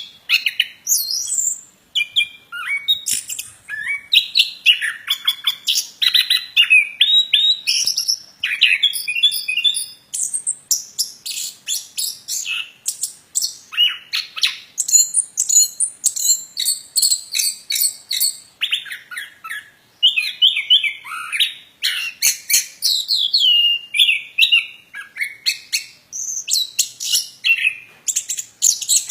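A plontang songbird singing continuously in rapid, varied phrases of high chirps and trills, with only brief pauses between bursts: the bird is in full song.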